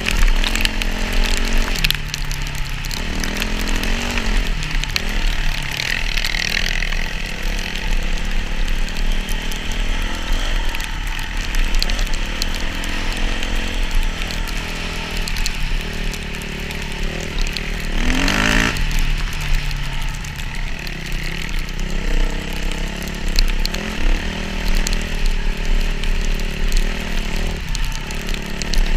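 Motocross dirt bike engine running and being revved as it is ridden, its pitch rising and falling every second or two, with a brief harsher burst about two-thirds of the way through.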